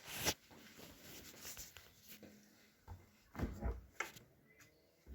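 A sharp click just after the start, then scattered faint knocks and rubbing sounds, the loudest cluster about three and a half seconds in.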